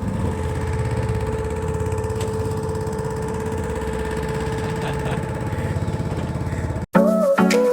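Small boat's motor running steadily with a fast, even chug, cutting off abruptly near the end.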